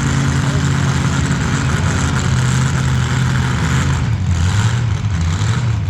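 Big truck engine idling loudly and steadily, its pitch dropping slightly about two-thirds of the way through.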